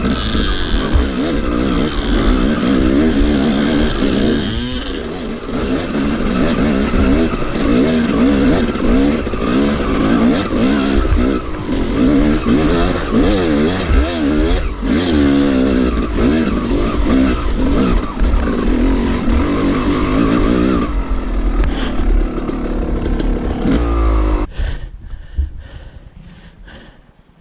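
Two-stroke dirt bike engine revving hard and unevenly under load, climbing a rough hill, its pitch rising and falling with the throttle. Near the end the engine stops and the sound dies away.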